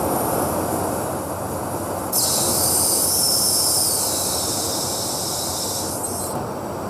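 Steady in-flight noise of a jet aircraft, a loud even rush of engines and airflow. A high hiss joins it suddenly about two seconds in and stops suddenly about four seconds later.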